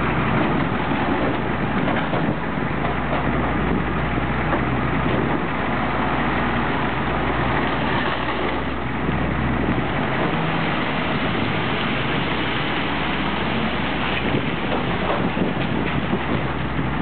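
Heavy vehicle engine idling steadily with a low rumble, with faint scattered knocks.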